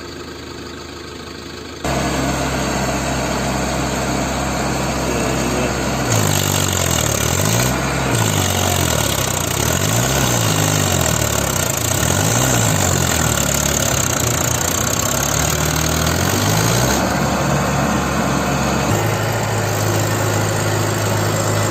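Mahindra tractor diesel engine running. It gets suddenly louder about two seconds in, then revs up and down over and over, about once every two seconds, before settling back to a steady run near the end.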